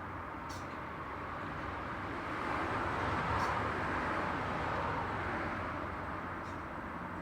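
Steady road traffic noise, swelling from about two and a half seconds in as a vehicle passes and easing off again. A few faint, short, high sounds are heard over it.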